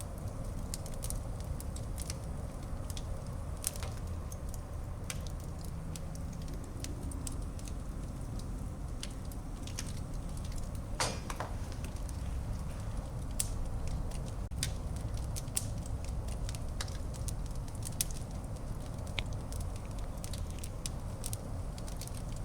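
Wood fire burning in a fireplace: a steady low rumble of flames with irregular sharp crackles and pops, one louder pop about halfway through.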